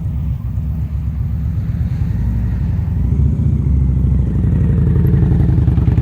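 Motorcycle engine running at low speed with a low, pulsing exhaust note that grows louder about halfway through as the bike is given throttle or comes closer.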